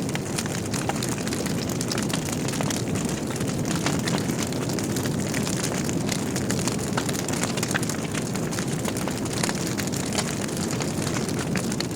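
Wood fire burning in a fireplace: a steady low rushing of flames with frequent small crackles and pops from the burning logs.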